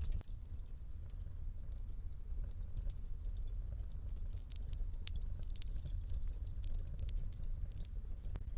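Wood fire crackling: a steady low rumble of burning with frequent small sharp pops and snaps.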